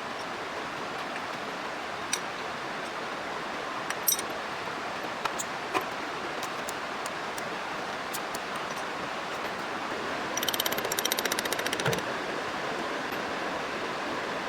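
Workshop sounds during truck reassembly: a steady hiss with a few sharp metallic clicks, then about ten seconds in a rapid ticking rattle lasting about a second and a half.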